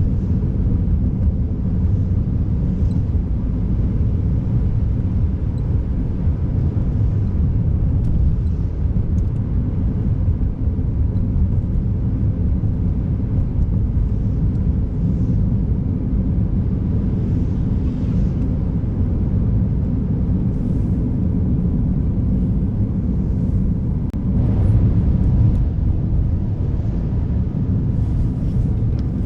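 Steady low rumble of a car being driven: tyre, road and engine noise, swelling briefly about 25 seconds in.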